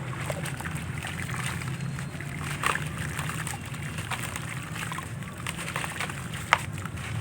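Handmade gritty crumble pieces dipped in water, with sloshing and scattered crackling, and a sharp snap about six and a half seconds in.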